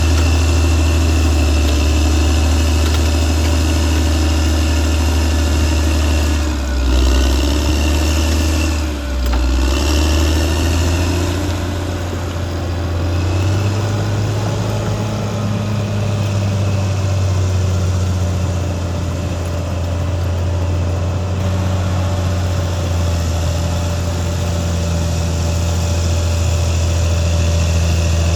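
Caterpillar D6R XL bulldozer's diesel engine running steadily. Its pitch dips briefly twice, about seven and nine seconds in, then settles at a slightly higher speed.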